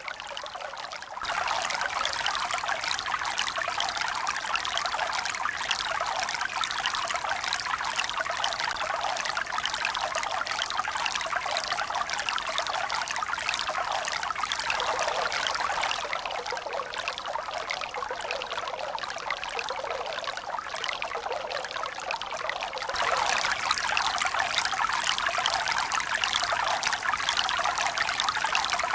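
Running water, a steady trickling and pouring. It gets abruptly louder about a second in, softer about halfway through, and louder again near the end.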